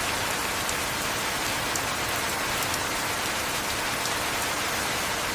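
Heavy rain falling steadily: a dense, even hiss with a few separate drops ticking through it.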